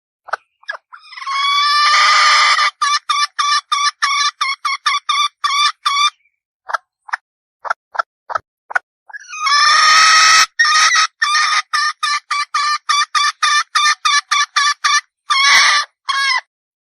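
Red junglefowl hen calling: a long drawn call, then a quick even run of short clucks at about four a second, twice over, with a few scattered clucks in between.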